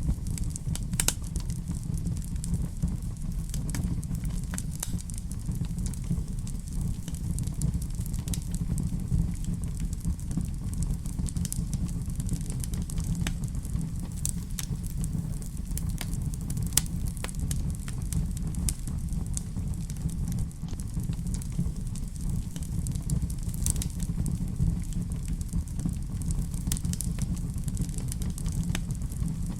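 Wood fire burning in a fireplace: a steady low rumble with many scattered sharp crackles and pops throughout.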